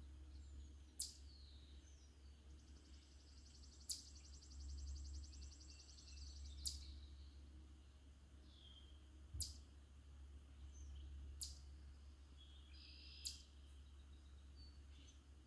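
Songbirds calling faintly: a sharp high chip repeated every two to three seconds, a fast high trill of about four seconds near the start, and scattered short chirps, over a steady low rumble.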